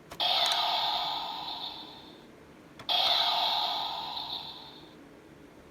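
Jazwares electronic Nerf target's small speaker playing its game-start sound effect: two matching bursts, each about two seconds long and fading out, the second following about half a second after the first.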